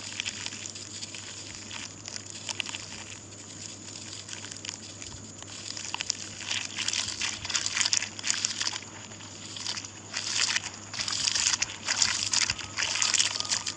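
Lumps of burnt charcoal ash being crushed and crumbled, a dense crackling and crunching that comes in louder clusters from about six seconds in.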